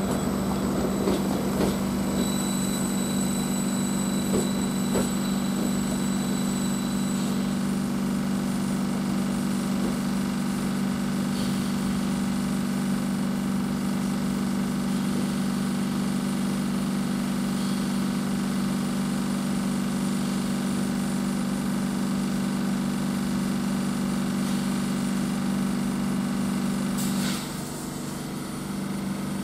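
Diesel multiple unit idling at a station platform: a steady low engine hum, with a faint high whine early on and a short dip and click near the end.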